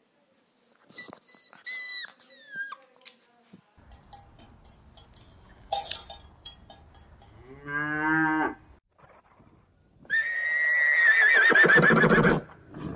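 A cow mooing: a shorter call past the middle and a long, loud, wavering moo near the end, with brief high-pitched squeaky calls about a second in.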